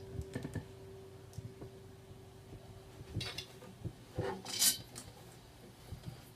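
The last note of a RainSong acoustic guitar ringing out and fading away over the first two seconds or so, followed by scattered small clicks and taps and a short rustle about four and a half seconds in, the loudest sound here.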